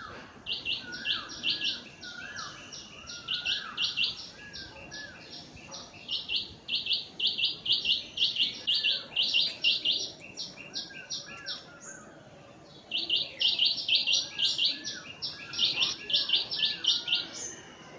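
Birds singing: one repeats quick high notes in long runs several seconds long, pausing about twelve seconds in, while another gives lower, down-slurred chirps.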